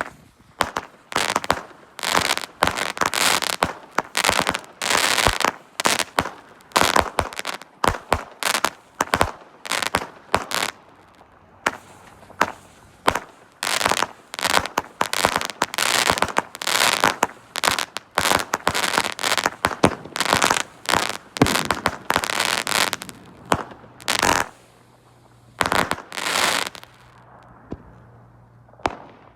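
Two Red Apple Ganja OG Kush 25-shot, 200-gram firework cakes firing together: a long, rapid run of launches and aerial breaks, several bangs a second. The barrage thins out near the end with two last separate bangs.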